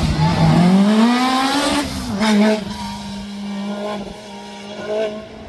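Rally car engine accelerating hard, its note rising for about two seconds, then dropping at a gear change and holding a steadier note as it gets quieter.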